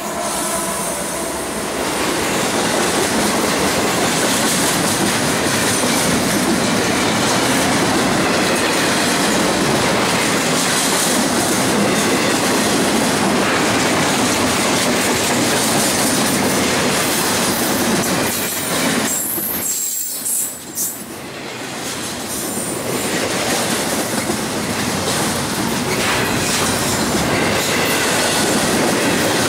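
Double-stack intermodal freight train passing close by behind a CSX locomotive: the steady rumble and clatter of steel wheels over the rails, with a brief high wheel squeal and a short dip in the noise about two-thirds of the way through.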